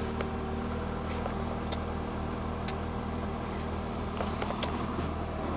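A car engine idling steadily, with a few faint clicks over it.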